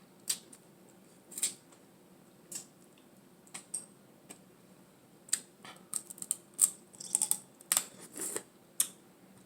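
Close-miked eating sounds: irregular lip smacks and wet mouth clicks while chewing, sparse at first and coming thick and fast over the last few seconds.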